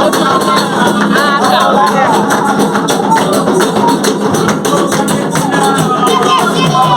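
Several voices singing a call-and-response chant to the orixás, with hand percussion striking a steady rhythm underneath.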